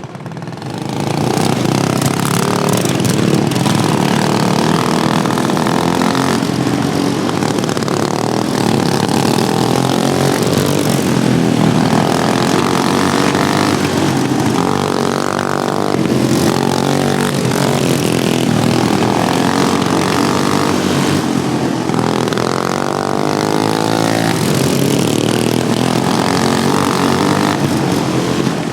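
Several modified racing lawnmower engines running hard, their pitch rising and falling as they speed up and slow down around the track.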